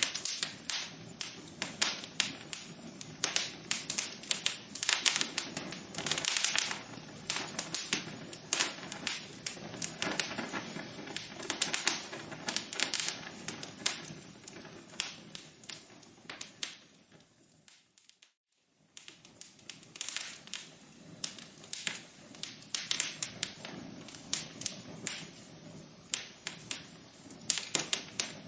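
Wood fire burning in a fireplace, crackling with dense, irregular sharp pops and snaps. About two-thirds of the way through, the crackle fades and drops to near silence for about a second, then picks up again.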